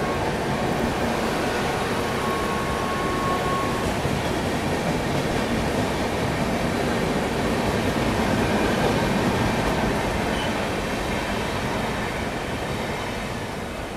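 Passenger train running on the rails, heard from aboard the moving coach: a steady rumble and rattle of wheels and body. A thin steady tone sounds for a couple of seconds near the start, and the noise fades toward the end.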